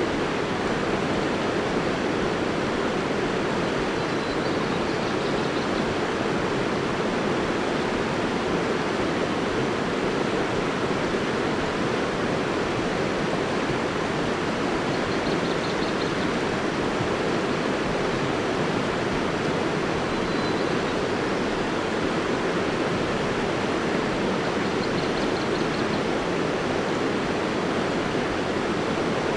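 River water flowing and rushing, a steady unbroken noise.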